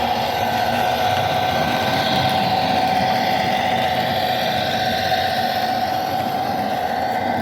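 Model locomotive running on the layout: a steady motor whine over a low rumble from the track.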